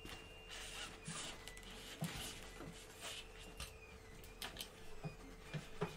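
Light handling noises: scattered small knocks and rustles as items on a work table are moved about, over a faint steady hum.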